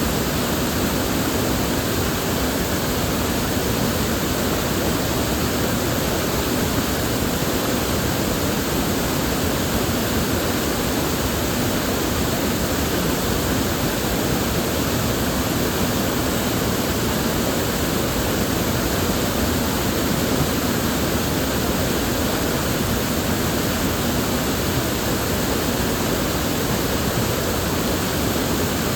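River water flowing steadily, a constant even rush with no distinct splashes or changes.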